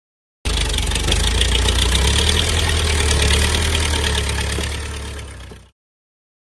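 A heavy engine idling with a steady low rumble, likely a diesel tractor engine. It starts abruptly and fades away near the end.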